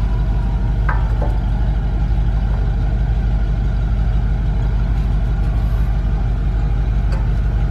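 An engine idling steadily with a low, even rumble. Light clicks come about a second in and again near the end as a new brake pad is slid into the caliper bracket.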